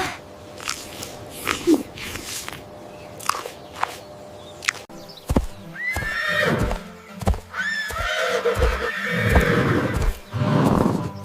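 A horse whinnying: a few light clicks first, then loud whinnies about six and eight seconds in, followed by longer breathy calls near the end.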